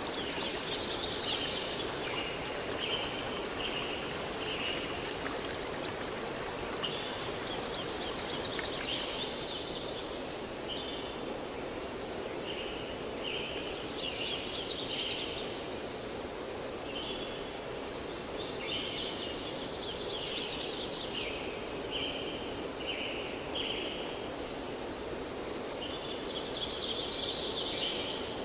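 Steady rushing of a forest stream, with a songbird singing the same short phrase over and over: a quick trill followed by a run of short notes, about five times.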